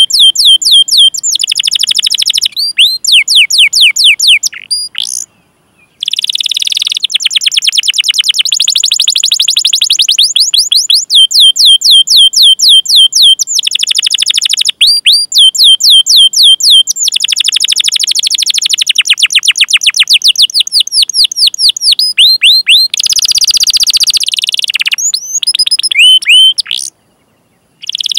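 Domestic canary singing long rolling trills of rapid, evenly repeated high chirps, switching to a new note type every second or two. The song breaks off briefly about five seconds in and again near the end.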